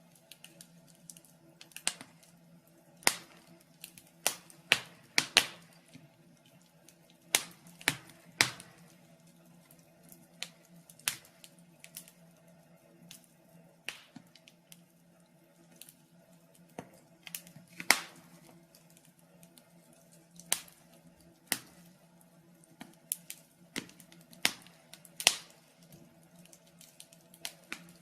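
Wood fire in a fireplace crackling, with sharp pops at irregular intervals, about one a second, over a faint steady low hum.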